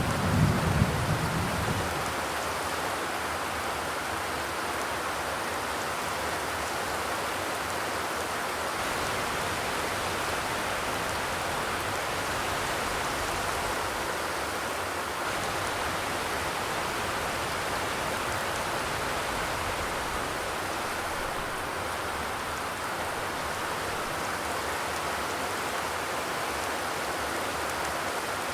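Steady rain drumming on a zinc (corrugated metal) roof, an even hiss of drops. A low rumble dies away in the first two seconds.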